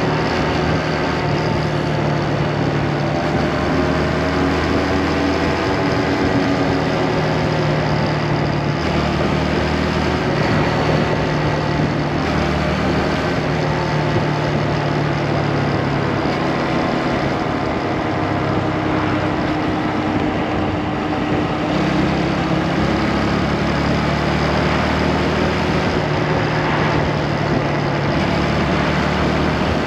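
Motorcycle engine running while riding, its pitch stepping up and down now and then with the throttle, over a steady rush of wind and road noise.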